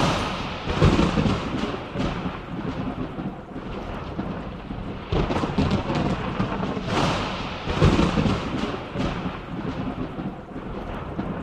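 Thunderstorm: steady rain with several rolls of thunder, the strongest about a second in and again around five, seven and eight seconds in.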